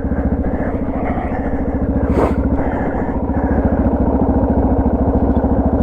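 Suzuki DR650's single-cylinder engine running steadily under way on a dirt trail, its firing pulses even and slightly louder after the first second. A brief sharp noise cuts through about two seconds in.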